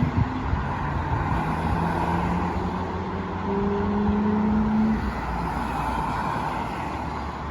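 CN freight train rolling past: a steady rumble with a few short humming tones over it.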